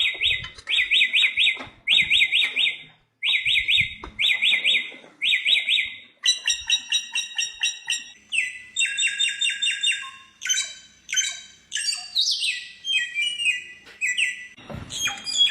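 Bare-throated whistler (samyong) singing: quick trilled phrases repeated about once a second for the first six seconds, then varied, faster phrases with falling whistled notes.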